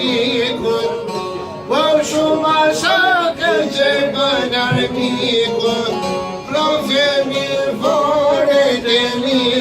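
A man singing an Albanian folk song, accompanied by the strokes of a def (frame drum).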